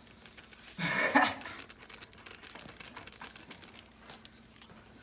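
Ramen noodles being eaten: a short, loud noisy sound about a second in, then faint small clicks and rustles of eating.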